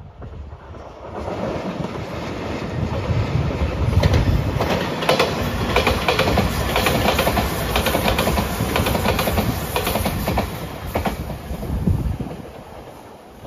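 JR Shikoku 8000 series limited-express electric train passing: its running noise builds over the first few seconds, the wheels clack repeatedly over rail joints as it goes by, and it fades near the end.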